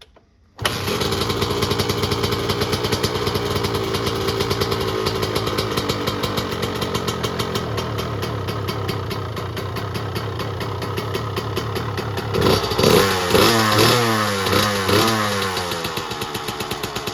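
2001 Honda CR125R's 125 cc two-stroke single-cylinder engine firing up from cold on the kick about half a second in, then running steadily on a fast idle. About twelve seconds in the throttle is blipped several times, the revs rising and falling, before it settles back.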